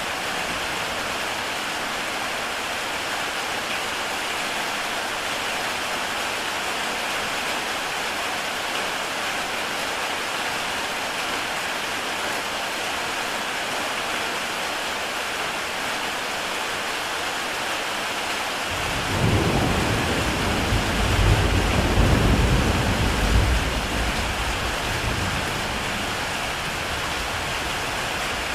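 Heavy rain falling steadily on a tile roof. About two-thirds of the way through, a deep roll of thunder comes in suddenly, swells for a few seconds and fades back under the rain.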